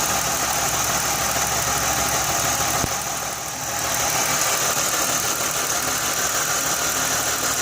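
Jaguar X-Type engine idling steadily with a constant high-pitched whine over it, dipping briefly in loudness about three seconds in. At idle it doesn't sound really bad; the owner's knocking complaint comes under acceleration.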